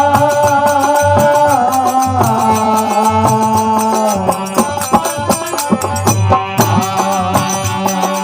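Instrumental interlude of a folk bhajan: held melody notes stepping from one pitch to the next over a steady hand-drum beat and the regular clink of manjira cymbals.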